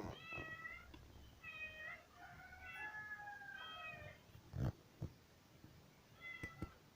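Kittens mewing: about five short, high-pitched mews, one longer and drawn out, with a few sharp knocks in the middle and near the end, the first knock the loudest sound.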